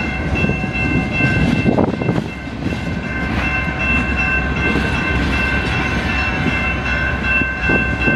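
Empty coal hopper cars rolling past: a steady rumble and clatter of wheels on rail, with a steady high-pitched squeal held over it and a couple of sharper clunks.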